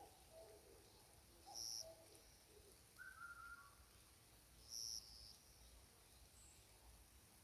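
Faint forest birdsong. There are low calls in the first couple of seconds, a short mid-pitched call about three seconds in, and a thin, high note that comes back about every three seconds.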